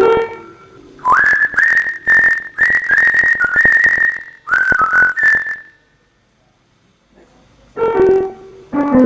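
High whistling: a run of held notes, each sliding up at its start, several in a row over about five seconds. Piano-like music comes in near the end.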